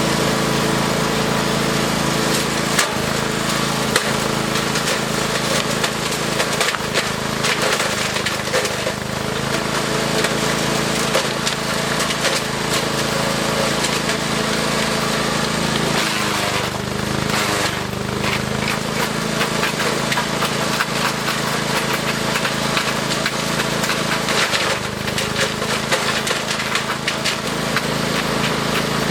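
Engine-driven wood chipper running and chewing branches, with constant cracking and splintering of wood. The engine's pitch sags under load three times, about 7 s, 16 s and 25 s in, and climbs back each time.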